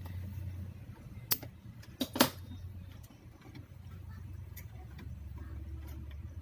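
A low steady hum, with a sharp click a little over a second in and a louder double click or knock about two seconds in, typical of small tools or parts handled on a workbench.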